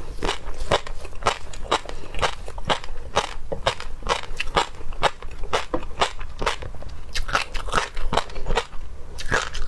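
Close-miked chewing and biting of seafood: rapid crackling, crunching clicks, several a second, with no pause.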